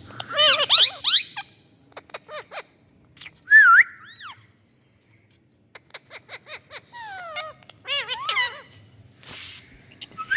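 Parrots calling: quick runs of sharp chirps, squawks that swoop up and down in pitch, and one loud whistle about three and a half seconds in. The calls break off for about a second near the middle, then the chirping and squawking start again.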